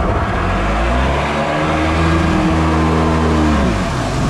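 Stand-up jet ski's two-stroke engine under throttle: it revs up over the first couple of seconds, holds high, then eases off near the end, over rushing water and wind noise.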